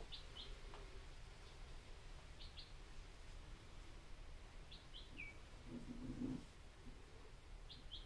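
Faint bird chirps in the background: short high chirps in pairs or threes, repeating about every two and a half seconds, with one falling note.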